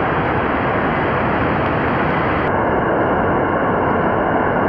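Heavy rain falling, a steady loud hiss with no rhythm; its tone shifts abruptly about two and a half seconds in.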